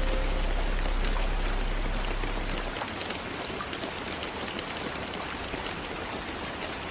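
Steady soft rain with scattered individual drop ticks, as rain on a window. Low held music tones are under it at first and fade out over the first three seconds.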